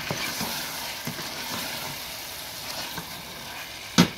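Chicken pieces and masala sizzling as they fry in oil on high heat in a stainless steel pot, with a few soft clicks as the pieces go in. Near the end, a wooden spatula knocks sharply against the pot twice as stirring begins.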